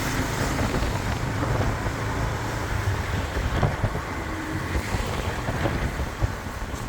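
Wind rushing over the microphone on a moving motorbike, over a steady low rumble of the bike and road traffic.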